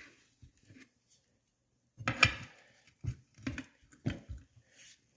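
Metal tire spoons levering a tire's bead over the wheel's rim lip: a loud scrape about two seconds in, then several short knocks and clunks of the spoons against the rim.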